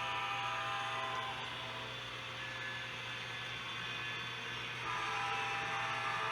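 HO scale model train running on the layout: a steady motor whine over wheel and track noise and a constant low hum. The high whine tones fade about a second and a half in and come back near the end as the train passes.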